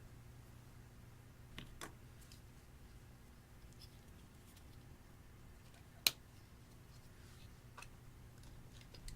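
A few scattered sharp clicks over a steady low hum, the loudest about six seconds in.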